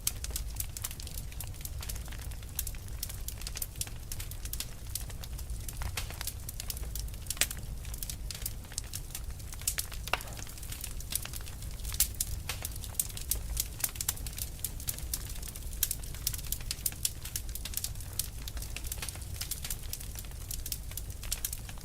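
Wood fire burning and crackling: irregular sharp pops and snaps, many a second, over a low steady rumble of the flames.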